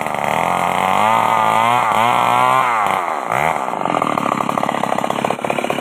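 Old Stihl two-stroke chainsaw running hard at high revs with a wavering pitch. About three seconds in, the engine speed dips and climbs again, then settles into a lower, pulsing run near the end.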